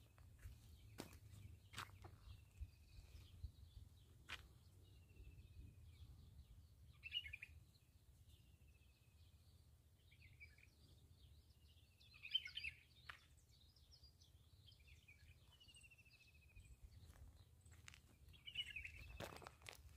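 Faint birdsong: a short falling call repeated every few seconds, with brief bursts of chirping about a third of the way in, a little after halfway and near the end. Occasional soft clicks and a low rumble sit underneath.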